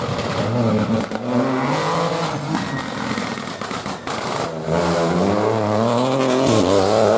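Rally car engine under hard acceleration, its pitch climbing and dropping back with each gear change. It is loudest in the last couple of seconds.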